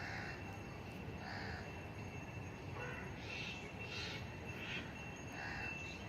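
Faint bird calls: short, harsh calls about six times, coming every second or so, over a thin steady high tone.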